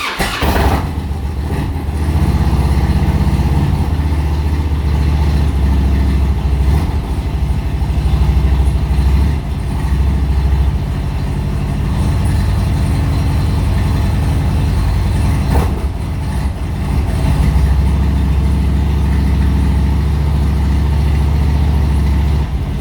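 Harley-Davidson V-twin engine starting, then idling steadily as it warms up from cold.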